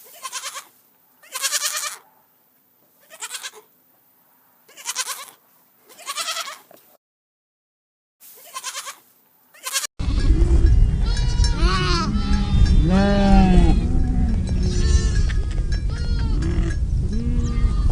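About seven single bleats with silent gaps between them. Then, from about ten seconds in, a flock of sheep bleating together, many overlapping calls over a steady low rumble.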